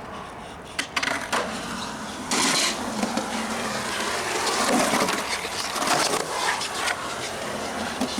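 Skateboard rolling with a steady wheel rumble, a couple of sharp clacks of the board just before a second in and near the end, and a short scraping hiss a couple of seconds in.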